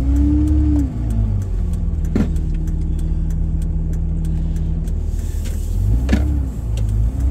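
Car engine heard from inside the moving vehicle, its pitch climbing and dropping back as it accelerates and shifts, with a steady drone in between over constant road rumble. Two sharp knocks, about two seconds and six seconds in.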